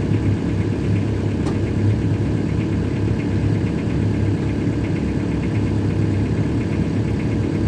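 Diesel car engine running steadily, a low even rumble.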